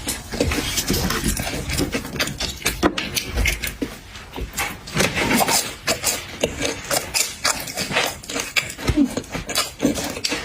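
A person eating close to the microphone: chewing and mouth smacking, heard as a dense, irregular run of wet clicks.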